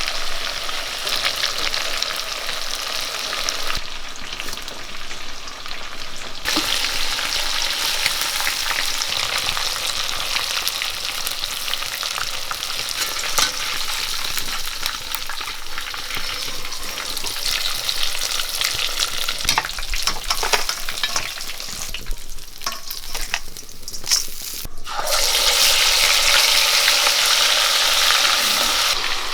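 Marinated chicken pieces deep-frying in hot oil, a steady sizzle with small clicks as the pieces are stirred. The sizzle thins out a few times and turns louder and brighter a few seconds before the end.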